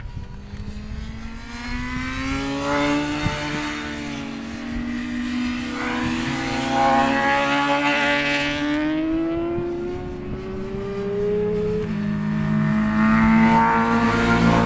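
Racing motorcycles at speed on a circuit, several engine notes overlapping and climbing steadily in pitch as the bikes accelerate through the gears, with another bike's lower note coming in near the end. Wind rumbles on the microphone underneath.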